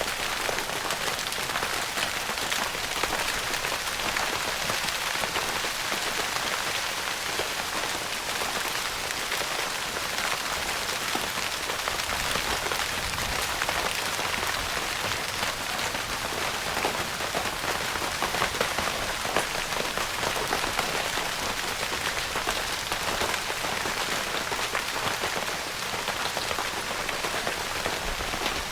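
Rain pattering steadily on a tent's fabric roof, a dense even hiss of many small drop ticks.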